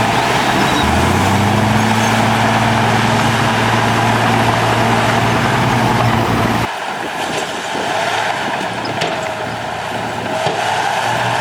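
Diesel engine of heavy earthmoving equipment running steadily with a deep hum. About two-thirds through it cuts off abruptly to a hissing noise with faint clicks and much less engine hum.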